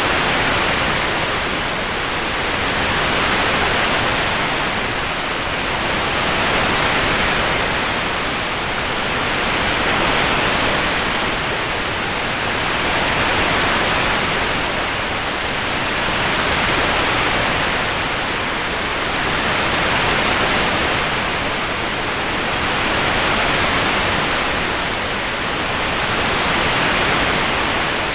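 Steady hiss of a relaxing rain-sound track, swelling and easing gently about every three seconds.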